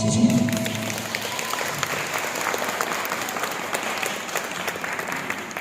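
Audience applauding as a song ends, with the last notes of the backing music fading out in the first second. The clapping stops abruptly near the end.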